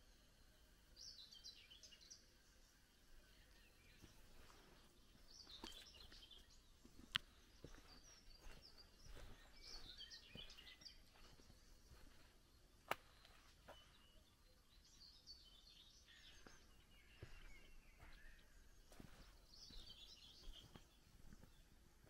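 Faint songbird singing short chirping phrases about every four to five seconds, over soft footsteps, with two sharp clicks about a third and two-thirds of the way through.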